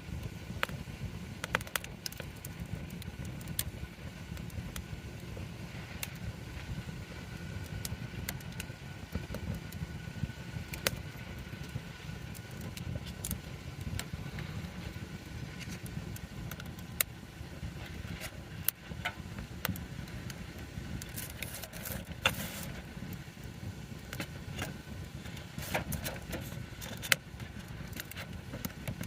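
Wood campfire crackling, with sharp pops scattered throughout and a dense run of crackles about two-thirds of the way in, over a steady low rumble.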